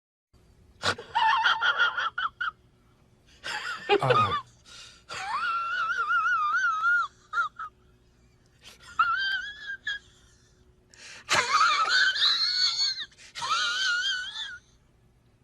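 High-pitched, wavering, wheezy vocal cries: about six drawn-out whines of a second or two each, with a faint steady hum underneath.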